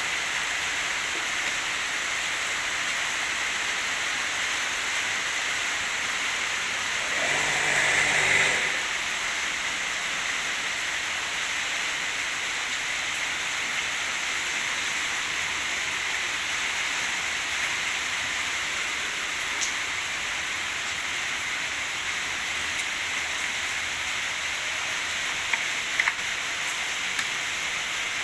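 Steady hiss of running water, with a brief louder sound about seven to eight seconds in and a few small clicks near the end.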